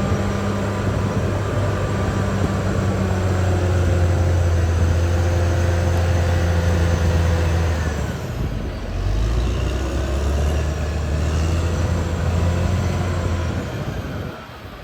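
Caterpillar D6R XL bulldozer's diesel engine running steadily, with a brief drop in pitch about eight seconds in before it picks up again; the sound falls away near the end.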